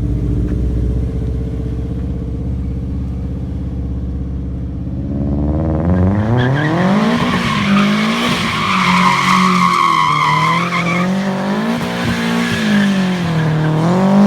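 Turbocharged rear-wheel-drive Subaru engine running low and steady, then accelerating hard about six seconds in as the car goes into a drift. The revs swing up and down while the tyres squeal.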